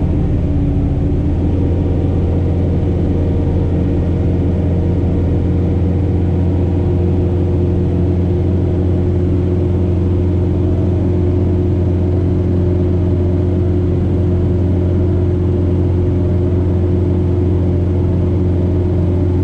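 John Deere 4066R compact tractor's four-cylinder diesel engine running steadily, an even low drone that holds the same pitch and level throughout.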